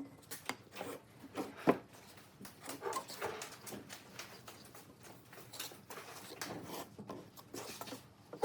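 Irregular light knocks and rubbing, with one sharper knock a little under two seconds in.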